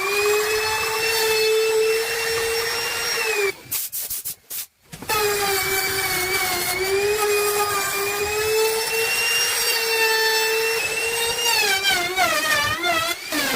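Electric power tool working wood, its motor running with a steady high whine. It cuts out for a second or so about four seconds in, starts again, and wavers in pitch near the end.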